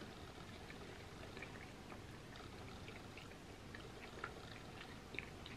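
Faint wet chewing and soft mouth clicks from eating a spoonful of cherry pie, with a few small smacks scattered through.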